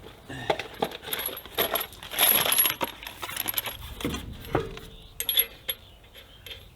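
Metal clinks and scrapes as a steel truck wheel is worked onto the hub, with a longer stretch of scraping about two seconds in and sharp metallic ticks throughout.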